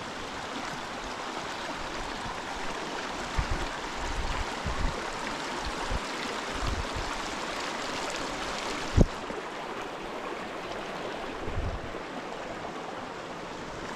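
Lewis Creek's water rushing steadily, with a few low thumps scattered through and one sharp knock about nine seconds in.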